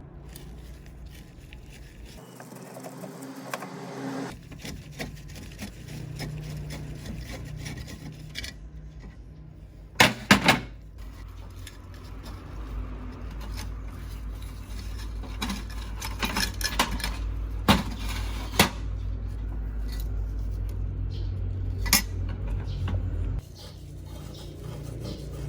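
Metal lamp parts being handled, with clinks and a few sharp clanks, and rubbing and scraping in between, across several short cut-together clips. A low steady hum runs under the second half.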